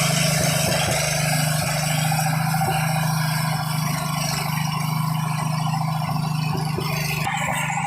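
Petrol-engine air compressor running at a steady speed, with a hiss of air over its hum; the upper hiss drops away near the end.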